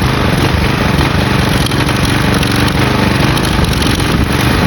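Briggs & Stratton flathead engine of a Craftsman push mower running steadily and loud while oil and grit are being fed into its intake to try to blow it.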